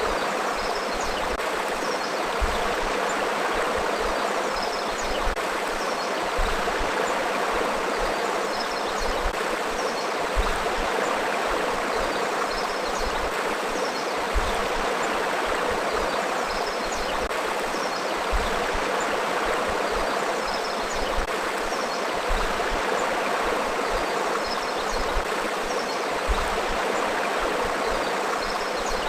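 Forest river flowing: a steady, unbroken rush of water, with faint short high chirps now and then.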